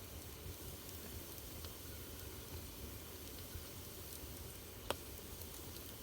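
Wood fire burning in a fireplace: a steady soft hiss and low rumble with faint scattered crackles and one sharper pop about five seconds in.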